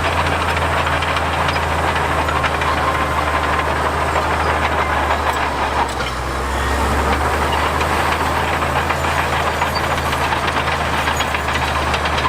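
Diesel engine of heavy earthmoving machinery running steadily under work, with a deep hum and a dense rattle over it; the level dips briefly and the engine note shifts about six seconds in.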